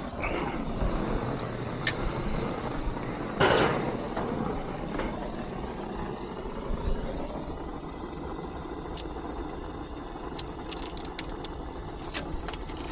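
Oxy-acetylene torch flame hissing steadily while brazing copper joints on a heat pump's reversing valve, with scattered light clicks and one louder burst of noise about three and a half seconds in.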